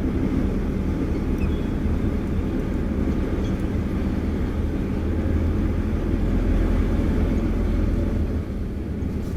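Semi-truck's diesel engine running steadily with a low, even rumble, swelling slightly partway through.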